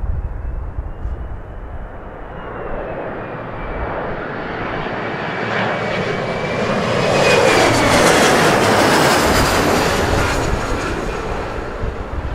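Embraer 170's twin turbofan jet engines on landing, coming past: the jet noise swells to its loudest about eight seconds in, with a thin high engine whine that dips a little in pitch as the plane goes by. Gusty wind rumbles on the microphone at the start and near the end.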